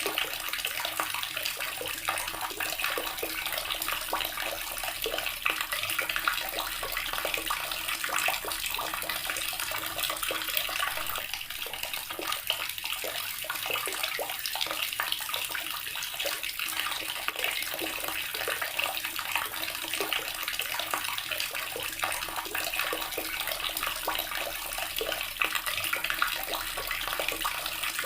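Water running steadily from a tap and splashing into a basin or tub below, a continuous hiss with small splashing crackles.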